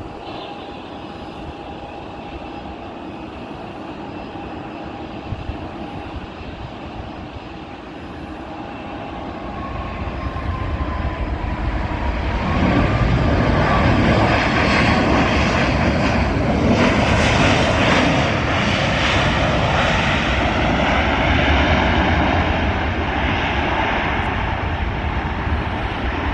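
Boeing 737 MAX 8 with CFM LEAP-1B turbofan engines, heard landing. The engine noise grows from about ten seconds in, with a whine that falls in pitch as the aircraft passes, then stays loud and steady.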